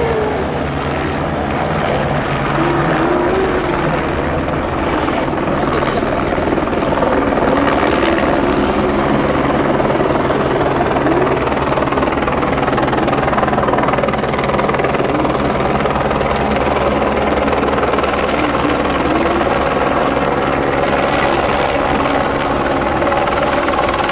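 Helicopter flying low overhead, its rotor and turbine making a steady, loud drone.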